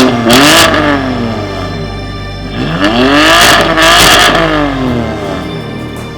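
Exhaust of a tuned 2018 BMW M3 (F80) Competition's twin-turbo inline-six, revving up and back down twice, the second a longer sweep with the loudest point about four seconds in. Background music plays underneath.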